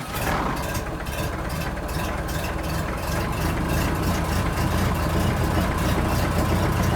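Engine idling steadily, with an even pulse of about five beats a second.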